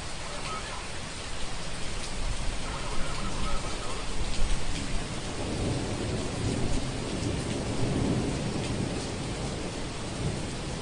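Thunderstorm: steady rain hissing, with a low rumble of thunder that builds a couple of seconds in, rolls on through the middle and slowly dies away near the end.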